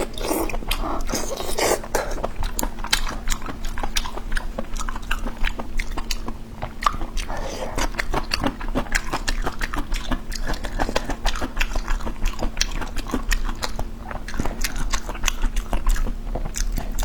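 Close-up chewing and biting of fatty pork large-intestine ends, a constant run of quick, irregular mouth clicks and smacks.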